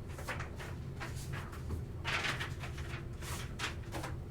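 Light clicks and rustles of cards and plastic packaging being handled, with a longer scrape about two seconds in, over a low steady hum.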